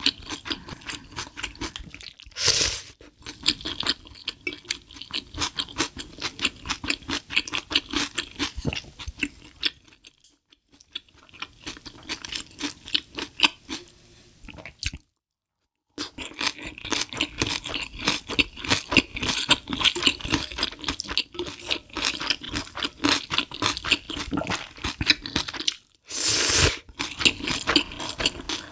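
A person chewing and crunching food close to the microphone, with a steady run of small crisp clicks and crunches. Two louder noisy bursts come a couple of seconds in and near the end, and the sound drops out to silence for about a second midway.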